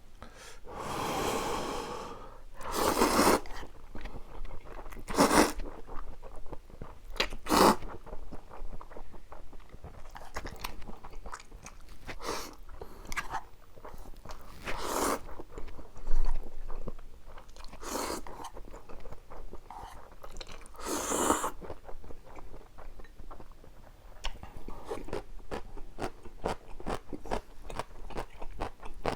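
Close-miked eating of spicy stir-fried cup noodles: several loud slurps of noodles, with wet chewing and small mouth clicks between them.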